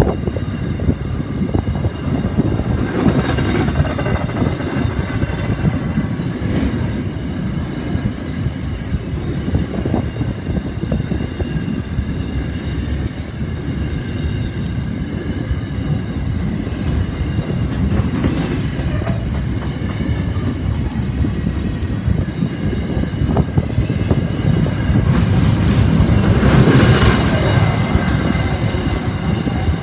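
A train's wagons rolling past on the rails with a continuous heavy rumble and clatter, swelling louder near the end.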